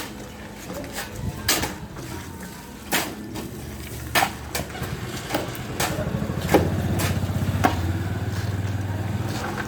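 Sharp knocks, roughly one a second, over a running engine that grows louder about halfway through.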